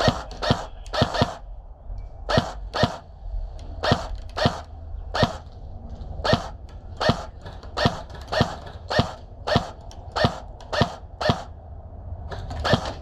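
Airsoft gun firing single shots, about two dozen sharp pops spaced irregularly, often in quick pairs, at roughly one to two a second.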